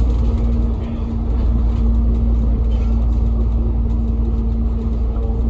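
KMB double-decker bus running on the road, heard from inside the cabin: a steady low engine and road rumble with a constant hum over it.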